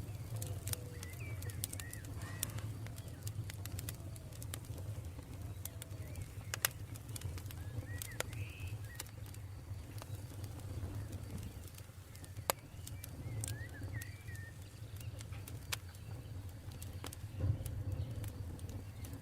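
Campfire crackling, with sharp pops every second or so over a low, steady rumble; the loudest pops come about 12 and 17 seconds in. Birds chirp now and then, and a dove coos in the first few seconds.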